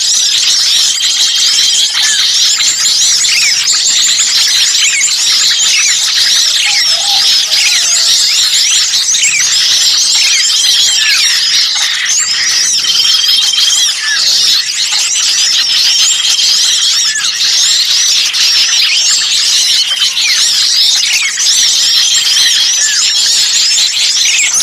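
A dense, noisy chorus of many small songbirds calling at once: an unbroken tangle of high chirps, trills and quick up-and-down whistles, with a short level whistle coming back every few seconds. It is a bird-lure (pikat) recording of noisy small birds, meant to draw other birds in.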